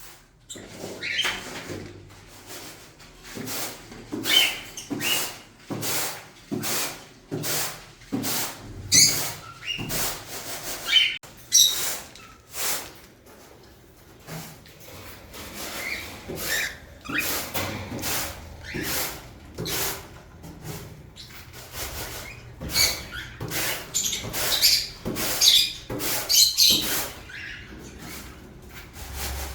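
Cockatiels and lovebirds calling: a continuous string of short, shrill chirps and squawks, often several in quick succession.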